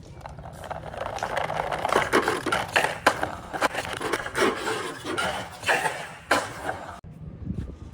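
Plastic toy tractor and trolley rolling and scraping on a hard surface, a rattling run with many clicks and knocks that stops suddenly about seven seconds in.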